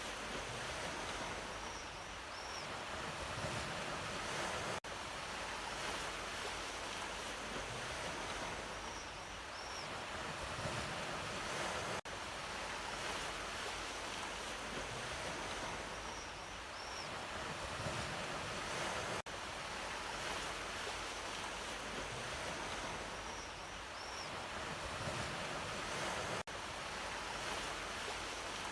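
Ocean surf washing in, a steady hiss that swells and eases in gentle cycles. The recording loops about every seven seconds, with a brief dropout at each join and a faint high chirp once per cycle.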